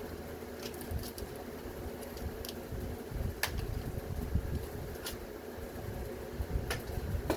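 Several sharp metallic clinks and knocks, irregularly spaced, as parts of a washing machine motor are knocked apart to free its glued copper windings, over a steady low hum.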